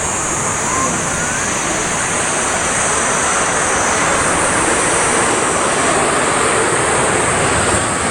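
Strong, gusty typhoon wind rushing over the microphone, a steady noise that swells a little partway through, over a constant high hiss.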